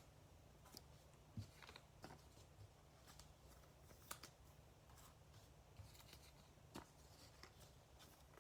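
Near silence with a handful of faint, scattered clicks and rustles from trading cards being handled and sorted.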